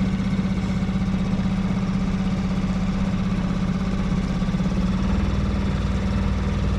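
Small boat outboard motor running steadily at a low, even speed, a constant hum that holds without change.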